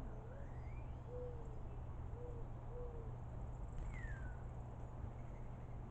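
A bird's low, hooting coo in four notes, the second the longest, with two faint higher whistled slurs from another bird, one rising and one falling about four seconds in.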